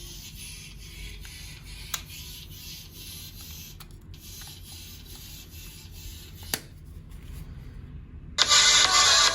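Rubbing and handling noise over a steady hiss, with two sharp clicks, then loud music starts about a second before the end.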